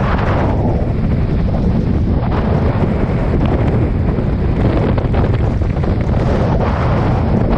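Strong wind blasting the microphone on a Hobie 16 catamaran sailing fast, a loud steady low rumble, with a shifting hiss of water rushing past the hulls.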